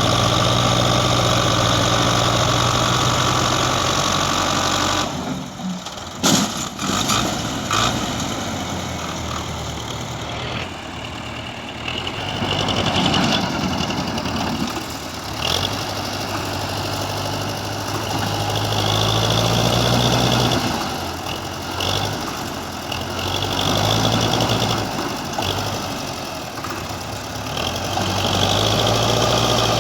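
A heavy vehicle engine running, steady for the first few seconds. Then comes a break with a few sharp knocks about six to eight seconds in. After that the engine sound rises and falls repeatedly.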